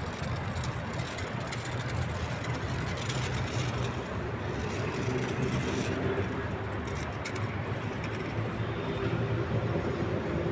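Urban road traffic: a vehicle engine running steadily with a low hum, over the general noise of city traffic.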